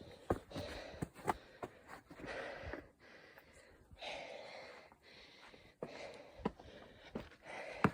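A person breathing hard on a steep hike, with long breaths about a second each, mixed with irregular footsteps and sharp clicks of feet on the trail.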